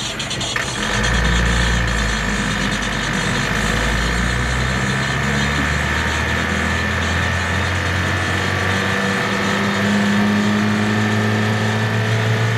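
Truck engine running under way, pulling hard after setting off. Its low note comes up about a second in and shifts in pitch around five and nine seconds in. A steady high whine sits above it.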